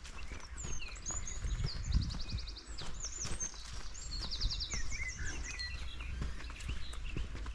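Small songbirds calling, with short chirps and several quick trills, over footsteps on the forest floor and a steady low rumble.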